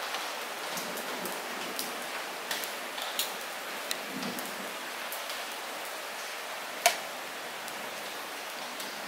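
Light rain falling steadily as an even hiss, with individual drops tapping close by at irregular moments; one louder drop hits about seven seconds in.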